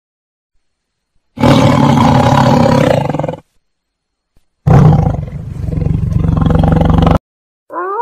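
Tiger roaring twice, each roar about two seconds long with a pause between. Just before the end a wolf howl begins, rising in pitch.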